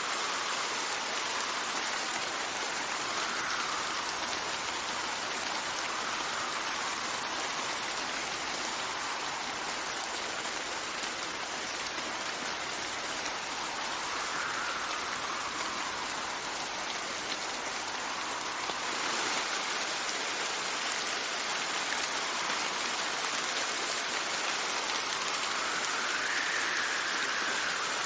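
Steady rain falling, with gusts of wind that swell and fade, rising and falling in pitch every few seconds.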